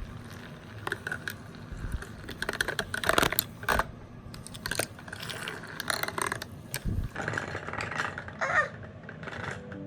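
Mini washing machine for makeup sponges running: a faint steady motor hum with irregular clicks, knocks and rattles as the small drum works against the sponges.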